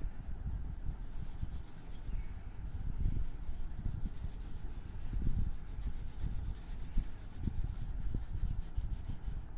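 Colouring strokes rubbing on paper, back and forth, with two runs of quick, even strokes.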